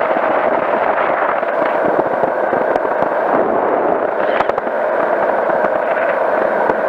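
Steady crackling noise of a powered parachute's engine and wind, heard through an aviation headset microphone in flight. The sound is thin and band-limited, like audio over a radio or intercom.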